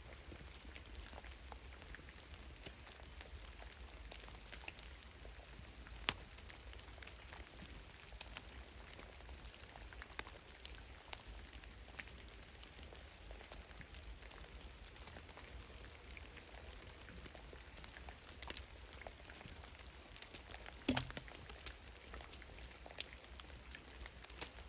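Meltwater drops from melting snow falling in a forest: an irregular, faint patter of drips. One drop stands out about six seconds in, and a heavier thud comes near twenty-one seconds in.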